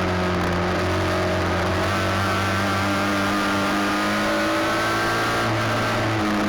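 Several midget race car engines running at once at high, fairly steady revs, with their pitches shifting a little as the cars work around the track.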